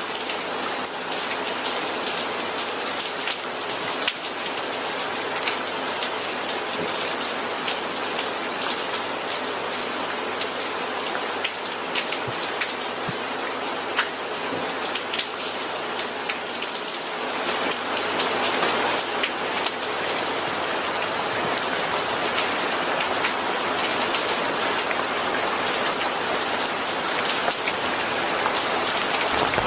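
Steady rain falling, with a dense patter of individual drops striking a surface; it grows a little heavier about halfway through.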